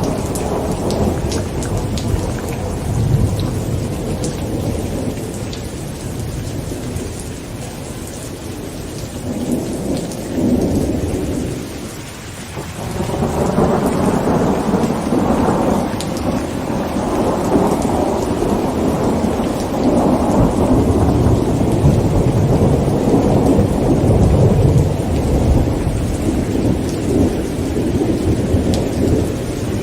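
Heavy rain falling on a tent with rolling thunder rumbling almost without a break. The thunder eases and drops away briefly about 12 seconds in, then a new long rumble builds and rolls on to the end.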